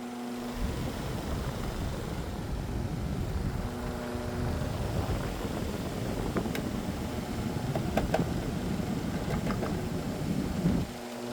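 02Cool 10-inch box fan running, its motor humming under a louder, uneven rush of air. A few light clicks come in the second half.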